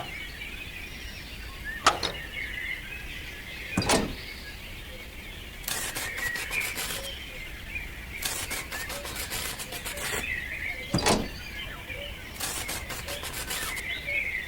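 Small birds chirping steadily, with three sharp knocks and three short bursts of rapid clicking or scraping.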